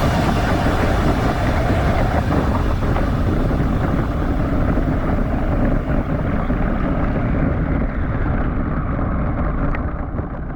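Brushless Latrax Prerunner RC truck driving on its paddle tires, heard as a steady rough rush with wind on the microphone, fading out near the end.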